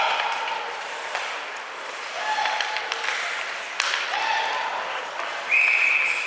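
Ice-rink crowd noise: spectators clapping and calling out in drawn-out shouts, with a sharp knock about four seconds in. Near the end a loud, steady high whistle blast, the referee's whistle stopping play.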